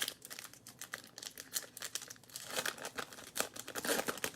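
Baseball card pack wrapper crinkling and tearing as it is opened. The crackle grows denser and louder over the second half.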